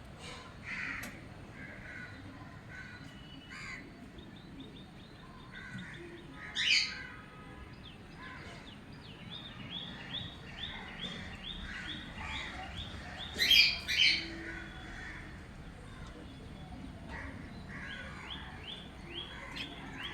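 Cockatiel chirping in quick runs of short repeated notes, about four a second. It gives three loud harsh squawks, one about a third of the way in and two close together past the middle.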